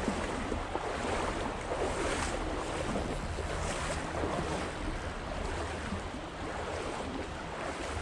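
Steady rush of moving water, with wind buffeting the microphone and small irregular splashes.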